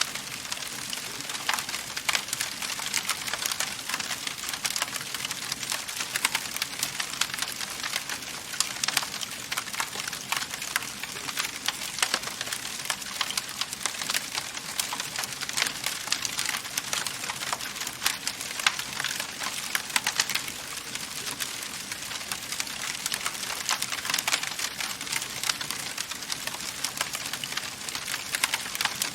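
Wood fire burning in a fireplace, crackling steadily with dense small snaps and occasional louder pops over a soft hiss of flame.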